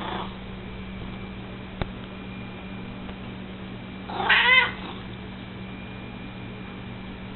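A domestic cat meows: one loud, short, wavering meow about four seconds in, after a fainter brief call at the very start. A single sharp click sounds near two seconds.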